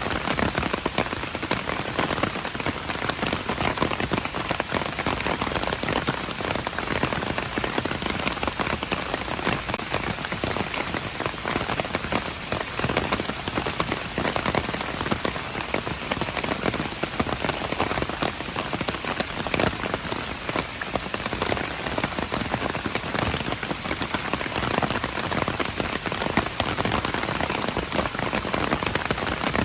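Steady rain falling on surfaces, a dense patter of many individual drop hits.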